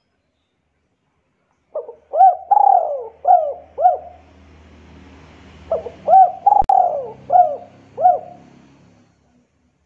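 A bird calling in two phrases of four or five short notes, each note rising and then falling, the phrases about two seconds apart. There is a single click during the second phrase.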